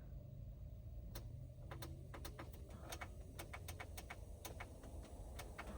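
A series of sharp, irregularly spaced clicks, about fifteen in all, over a low steady hum.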